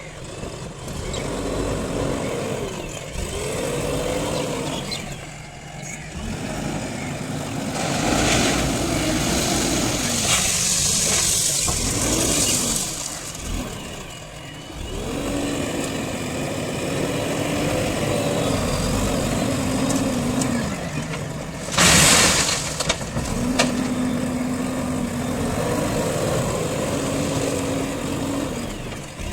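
JCB 3DX backhoe loader's diesel engine working under changing load, its pitch rising and falling again and again as the hydraulics lift and swing. A short, loud burst of noise comes about 22 seconds in.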